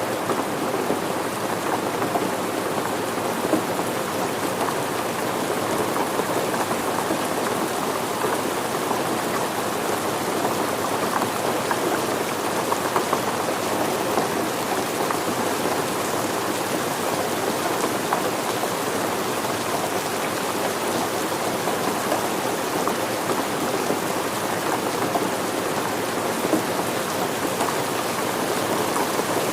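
Steady rain falling, an even hiss of rain with the patter of individual drops throughout.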